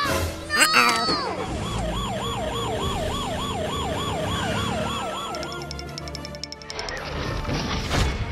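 Emergency-vehicle siren sound effect, a fast wailing yelp rising and falling about three times a second for about four seconds before fading. There is a sharp swish just before it starts and a hit near the end.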